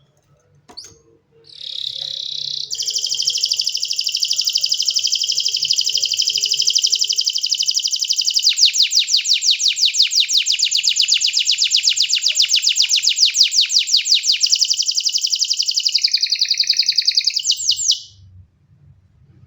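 Domestic canary singing one long unbroken song of fast rolling trills, high-pitched, switching to new phrases several times before stopping shortly before the end.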